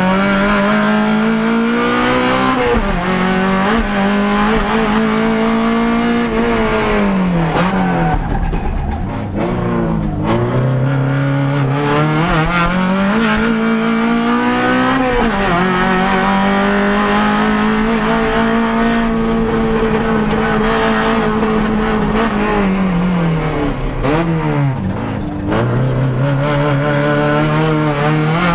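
Proton Satria race car's 4G93 SOHC four-cylinder engine and straight-cut gearbox heard onboard: a loud gear whine over the engine, its pitch climbing and falling with the revs through several accelerations, lifts and gear changes.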